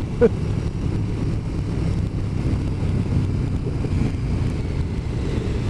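Motorcycle riding along at a steady speed: a steady low engine drone mixed with wind noise.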